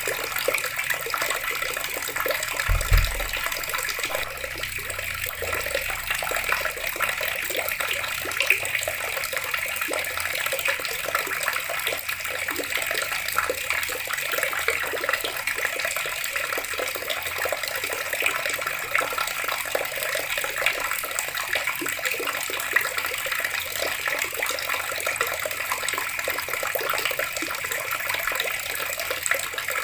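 Water running steadily from a tap and splashing, with a brief low thud about three seconds in.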